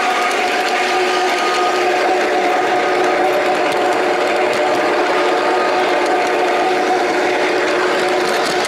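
Electric motor and gearing of a large-scale garden-railway model locomotive whirring steadily as it runs along the track, with a few steady whining tones.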